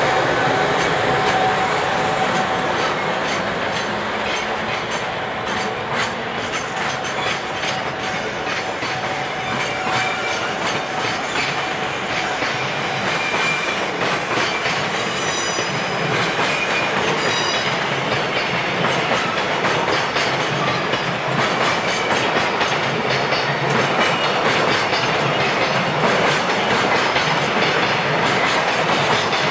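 Container freight train's wagons rolling past on the rails, wheels clicking steadily over rail joints, with faint high wheel squeals about halfway through.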